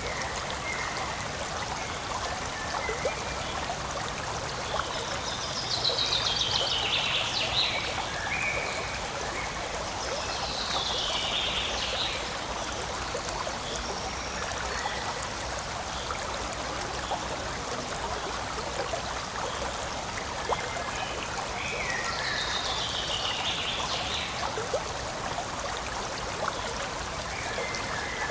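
Forest stream running steadily over rocks, a constant rush and trickle of water. A bird sings a falling trill three times over it.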